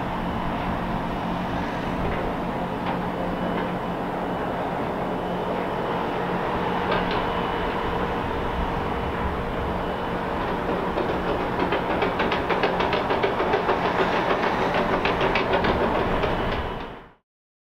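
A freight train running past behind a Class 66 diesel locomotive: a steady engine hum, with wagon wheels clicking over rail joints in a quickening, louder run from about two-thirds of the way in. The sound cuts off suddenly near the end.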